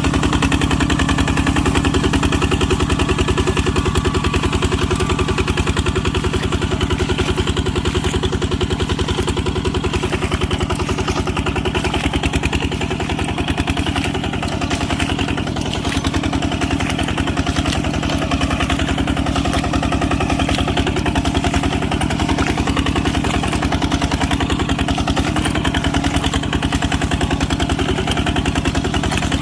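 Tractor engine running steadily with a rapid, even chugging of firing pulses, easing a little in level about halfway through.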